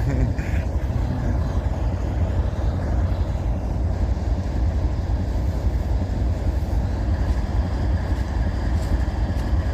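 Diesel freight locomotive idling: a steady low rumble.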